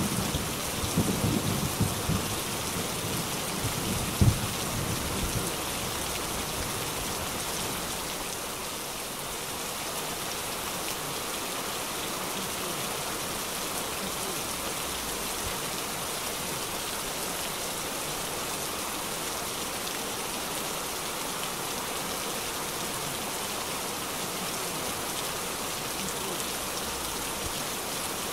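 Heavy rain pouring down onto a wet street and splashing in puddles, a steady even hiss. A low rumble of thunder dies away over the first few seconds.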